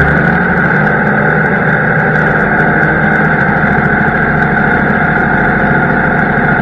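Farm tractor engine running steadily with harvest machinery, a loud unbroken drone.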